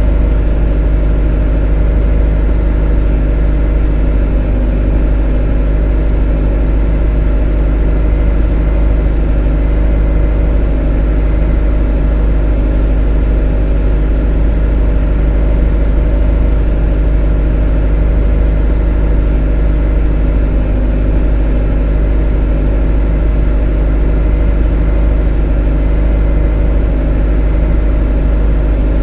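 Motor running at a steady speed: a deep hum with several steady tones above it.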